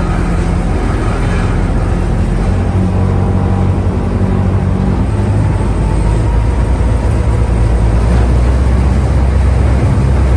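Boat engine running steadily, a constant low drone, heard from on board along with rushing noise from wind and water.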